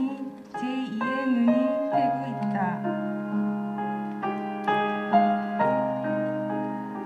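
Soft background piano music, held notes changing about every half second. A voice sounds over it for the first couple of seconds.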